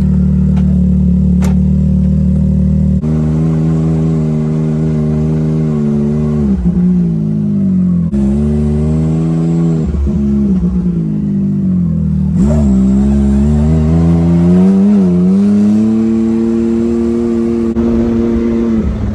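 Can-Am Maverick X3 side-by-side's turbocharged three-cylinder engine running hard at a high, steady pitch. The pitch dips and climbs back several times as the throttle is let off and reapplied. The sound jumps abruptly a few times where shots are cut together.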